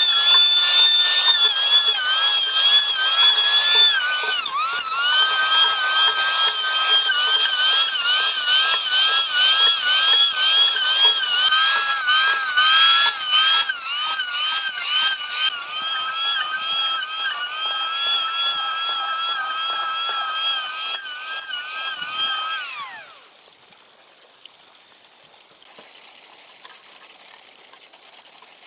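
High-pitched electric power-tool motor whining at speed, its pitch wavering and dipping briefly a few times as if under load. Near the end it winds down with a falling pitch and stops.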